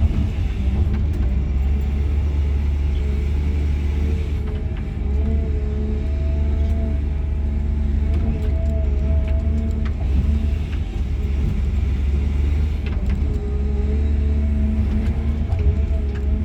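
Cat 323 GC excavator's diesel engine and hydraulics running steadily, heard from inside the cab: a deep, even rumble with a whine that wavers up and down in pitch, and a few light knocks.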